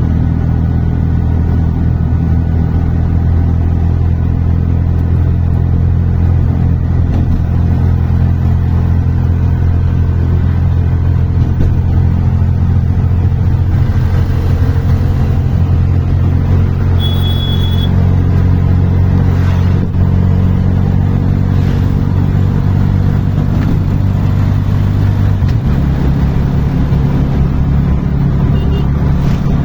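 A motor running steadily with a loud, low drone that shifts to a new pitch about 25 seconds in. A brief high beep sounds about 17 seconds in.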